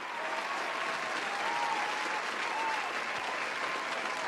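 Audience applauding, a steady dense clapping with a few faint voices or whistles wavering through it.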